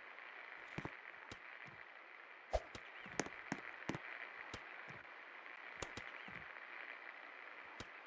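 Superstar Contractor Elite 52-inch ceiling fan running, a steady airy whoosh with scattered irregular clicks and taps.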